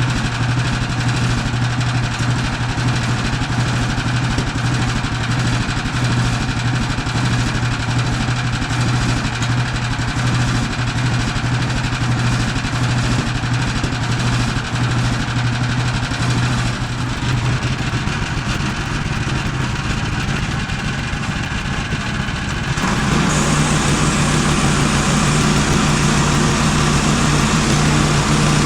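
A gas engine running steadily. About 23 seconds in, the sound changes abruptly to a higher-pitched, louder running note.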